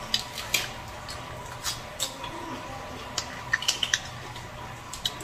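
Close eating sounds: chewing and wet mouth clicks, mixed with the crackle of lettuce leaves being folded by hand. These come as scattered short clicks over a faint steady hum.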